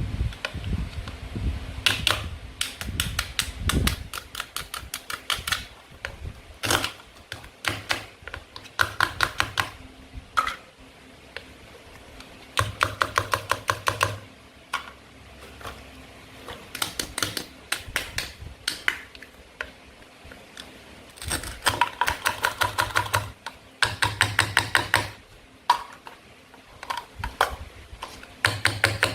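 Plastic toy food clicking and rattling in quick bursts of about ten sharp clicks a second, each burst lasting a second or two with short pauses between.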